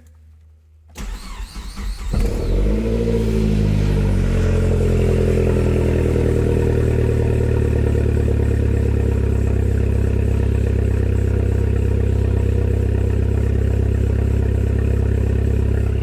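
Turbocharged Saab 9-5 engine started with the exhaust open just after the catalytic converters and no muffler fitted. It cranks briefly and catches about two seconds in with a quick rev that rises and falls, then settles into a steady idle.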